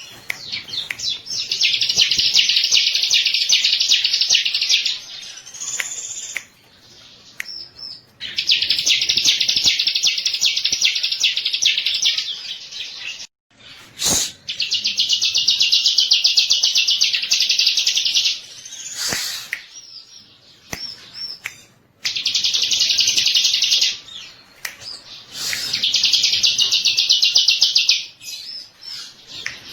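Bar-winged prinia (ciblek) singing loudly in long, very fast, high trills of a few seconds each, about five bouts with short pauses between them.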